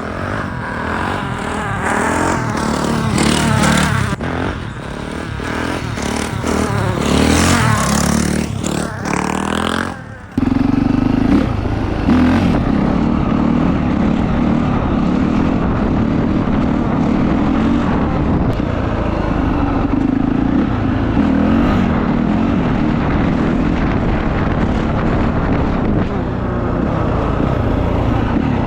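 Honda CRF450R dirt bike's single-cylinder four-stroke engine revving up and down, its pitch rising and falling. About ten seconds in the sound breaks off abruptly and gives way to the engine running at a steady, even note.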